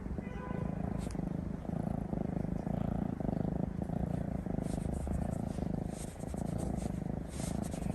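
Domestic cat purring close to the microphone: a continuous low rumble that swells and dips with each breath. Light scratchy rustles come through in the second half.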